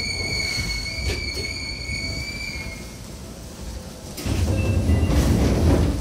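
Seibu New 2000 series electric train running, heard from inside the car: a steady high whine fades out about halfway through. Then, about four seconds in, the rumble of wheels on track grows louder, with a few rail-joint clacks.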